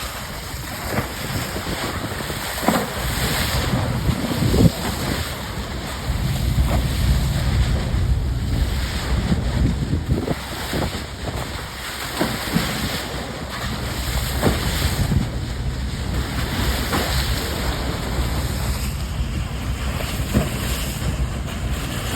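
Wind buffeting the microphone over the rushing water of a ship's bow wave, with a steady low rumble from the moving ship underneath and now and then a brief splash or gust.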